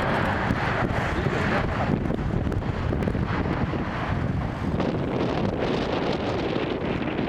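Strong gusty wind buffeting the microphone: a steady, rough rushing with no clear engine tone.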